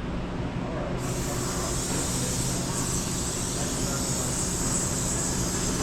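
Gas torch hissing steadily, lit about a second in, heating an aluminium fork lug, over a steady hum of shop machinery.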